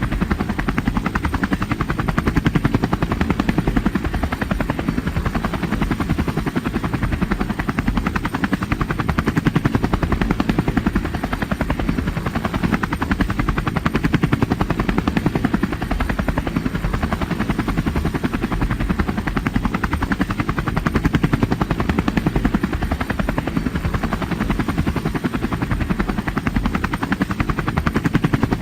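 Aircraft noise: a fast, even chopping pulse that runs without a break and swells and eases every few seconds.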